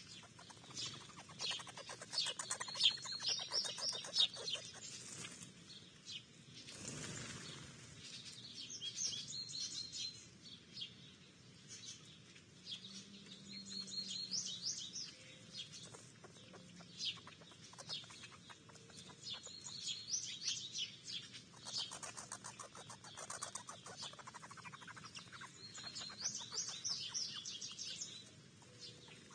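A backyard songbird singing a short phrase of quick high notes, repeated about every five to six seconds, with other birds chirping around it. A brief rushing sound about seven seconds in.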